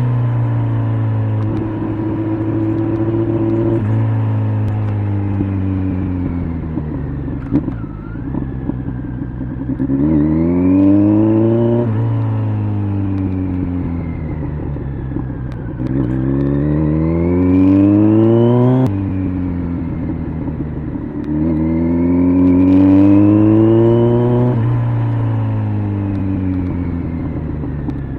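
Kawasaki Z900 inline-four with an LCI aftermarket exhaust, heard from the bike while riding: the engine pitch climbs under throttle three times and falls back in between as the rider rolls off.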